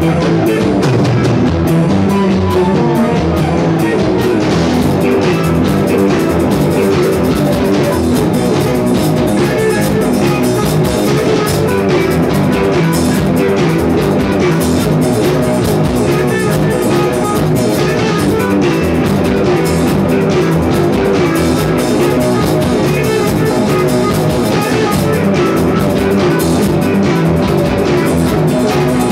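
Rock music played on drum kit and guitars, steady and loud throughout.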